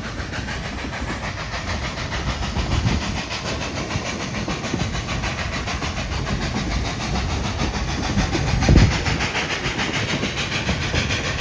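Narrow-gauge steam passenger train rolling along the track, heard from one of its cars: a steady rumble and clatter of wheels on rails with some hiss. A single louder low thump comes about three-quarters of the way through.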